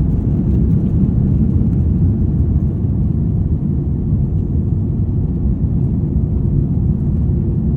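Steady low rumble of an Airbus A330's jet engines at takeoff power.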